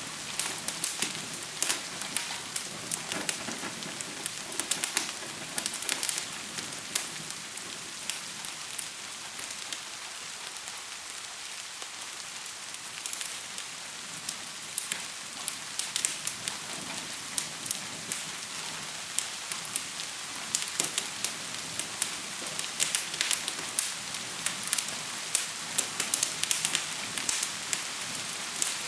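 Steady hiss of gentle rain, mixed with a fire crackling and popping in frequent sharp snaps. The pops thin out for a few seconds midway, then come thick again.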